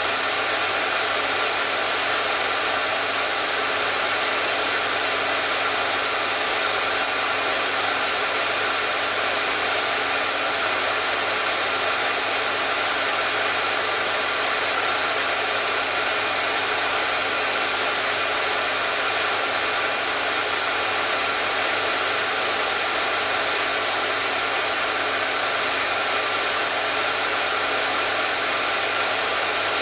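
Hair dryer running steadily, a constant airy rush of blown air with a faint motor hum, unchanging throughout.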